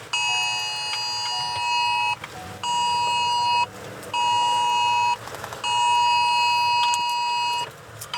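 Wireless Emergency Alert attention tone from a phone: a harsh, steady two-tone alarm near 1 kHz sounding in a repeating long-short-short pattern, a two-second tone then two one-second tones with half-second gaps, the cadence repeating once more about two-thirds of the way in.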